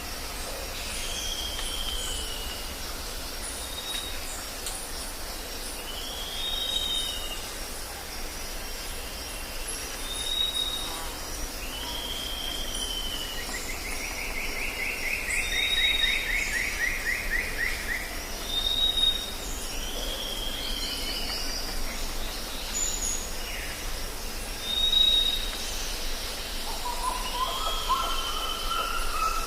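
Jungle ambience: several birds calling over a steady high insect drone. Short clear whistles and down-slurred calls repeat every couple of seconds, a longer buzzy trill comes about midway, and lower calls join near the end.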